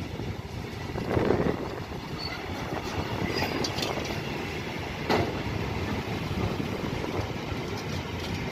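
Freight train wagons, covered wagons giving way to tank wagons, rolling past close by: a steady rumble of wheels on the rails with clacking over rail joints, and sharper knocks about a second in and again about five seconds in.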